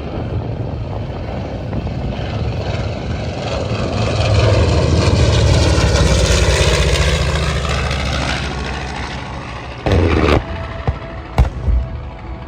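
Aircraft flying past at an air show: engine noise rises to a loud peak in the middle and then fades as it moves away. Near the end there are a couple of short sharp knocks.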